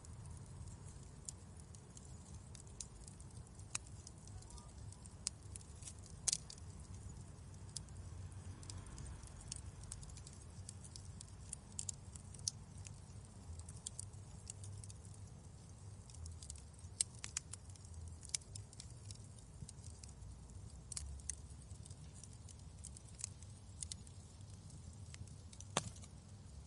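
Wood fire crackling in a fireplace: irregular sharp pops and snaps, a few louder than the rest, over a low steady rumble of the burning fire.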